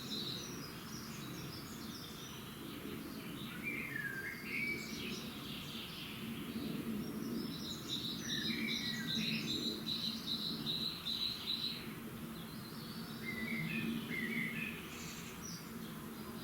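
Dawn chorus of several songbirds singing short, varied phrases. A rapid pulsed trill runs for several seconds in the middle, over a steady low rumble.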